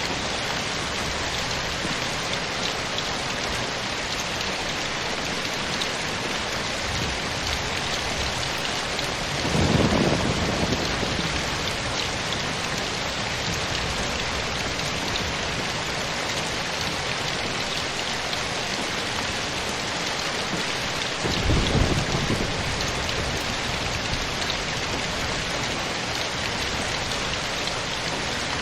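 Steady rain falling, a dense even hiss, with two brief low rumbles rising out of it, about ten seconds in and again about twenty-two seconds in.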